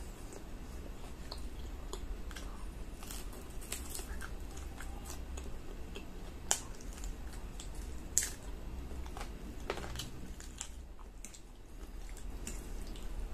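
Close-up chewing and biting of fried chicken, with wet mouth sounds and scattered crisp clicks, two of them sharper about halfway through.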